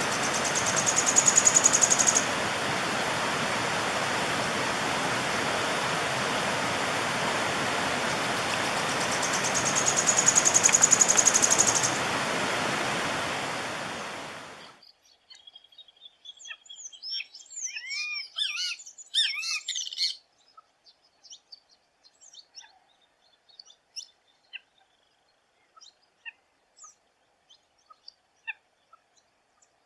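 Sharp-tailed streamcreeper (joão-porca) singing two rapid, high trills over loud rushing stream water. About fifteen seconds in, the water noise cuts out. A quieter recording follows of great kiskadee (bem-te-vi) calls: a burst of looping, squeaky notes, then scattered short chirps.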